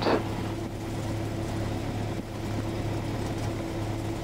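Piper Cherokee's single piston engine running steadily at low power, a constant low hum with no change in pitch.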